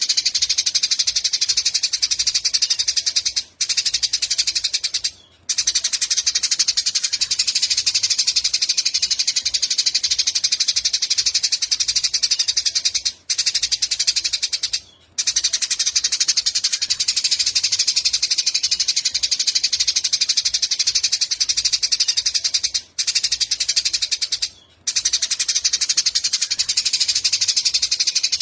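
Eurasian tree sparrows chirping in a dense, continuous chatter of rapid high calls. The chatter drops out briefly twice in every ten seconds or so, in a repeating pattern.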